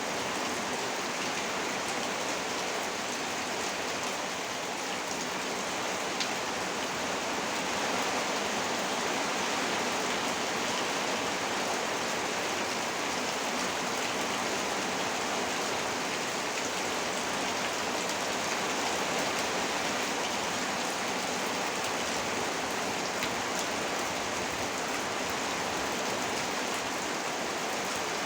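Heavy rain falling steadily: a dense, even hiss of drops with fine individual drop ticks through it.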